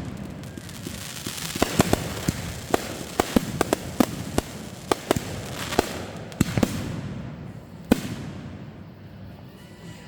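Fireworks going off: an irregular string of sharp bangs and pops, thinning out in the last few seconds.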